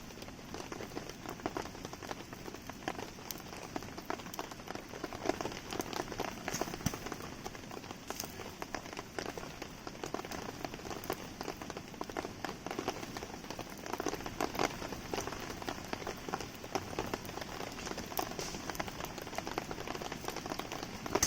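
Steady rain pattering on surfaces, with frequent sharp crackles and pops from a burning wood campfire.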